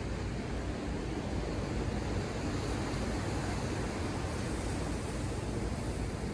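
Ocean surf washing steadily, with a low rumble of wind on the microphone.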